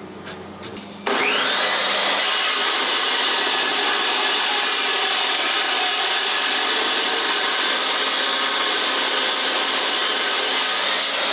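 A power saw starts about a second in, its motor winding up with a rising whine, then runs steadily and loudly while cutting steel stock for a 1 5/8-inch suspension spacer.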